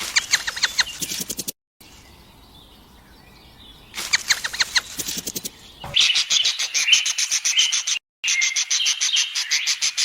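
Small birds chirping in quick repeated high notes, in several short clips joined with brief breaks; the chirping is densest and steadiest in the second half.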